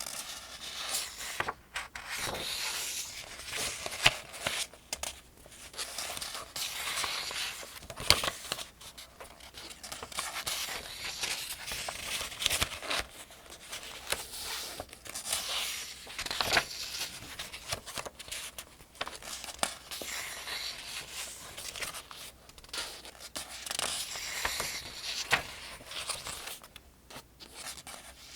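Paper pages of a Farmers' Almanac being turned one after another, a continuous papery rustle and swish with sharper page flicks now and then, loudest about 4 and 8 seconds in.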